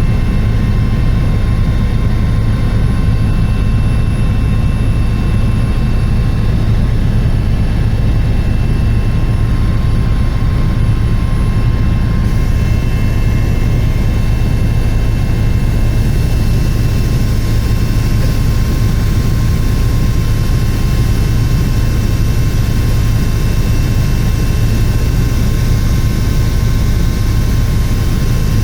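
Helicopter in flight: a steady deep rotor and engine drone with a thin, constant turbine whine above it.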